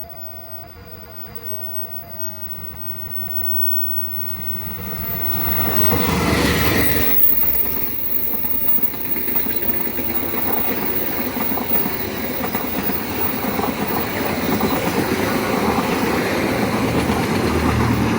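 A train passing close by on the track: the noise builds over the first few seconds, peaks as the front of the train goes by about six seconds in, then the wheels keep running on the rails steadily until the sound cuts off at the end.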